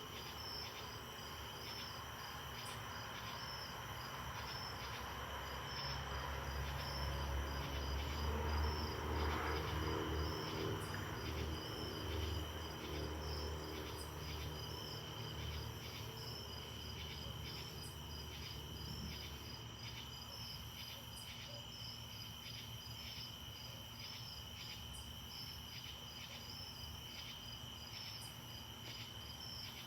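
Crickets and other night insects chirring steadily in high, evenly pulsing trills. A low rumble swells in about six seconds in, is loudest around nine seconds, and fades away after about fifteen seconds.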